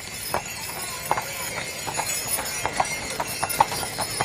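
Hooves clip-clopping on pavement, a quick uneven run of sharp clicks, with jingle bells ringing along.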